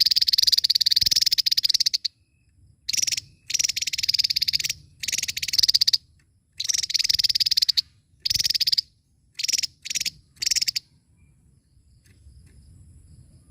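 Javan tesia singing: a series of loud, very fast high-pitched trills, the first about two seconds long and the later ones shorter and quicker in succession, stopping about eleven seconds in.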